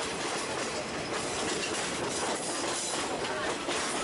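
Passenger train running along the track, heard at an open carriage window: a steady rush of wheel and rail noise with a few faint clicks.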